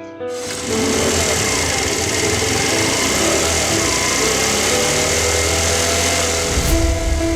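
Motorcycle riding sound, engine and wind rush together, cutting in suddenly just after the start and holding steady under background music.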